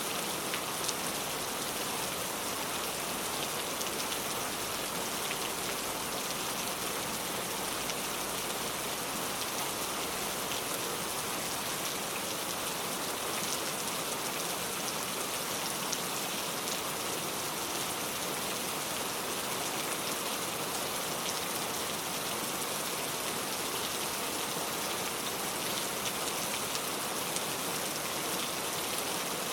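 Steady rainfall: an even, unbroken hiss with faint scattered drop ticks.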